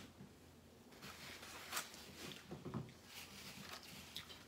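Faint eating sounds: chewing and small scattered clicks and rustles as tacos are eaten from foam containers.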